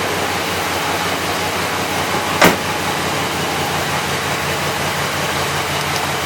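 1967 Oldsmobile Delmont 88's V8 engine running steadily just after a cold start, having sat unstarted for about a year. A single sharp click about two and a half seconds in.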